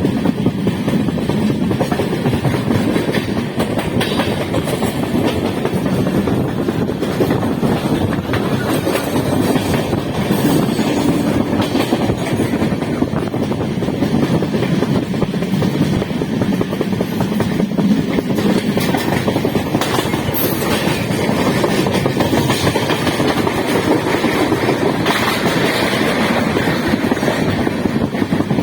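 Running passenger train heard from on board: a steady, loud rumble of the wheels on the rails, with a few faint clacks.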